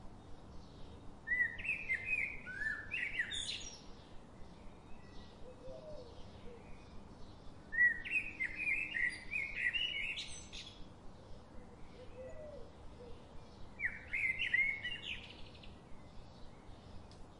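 Songbird singing three phrases of a few seconds each, about six seconds apart, each ending in higher notes, with faint chirping in between.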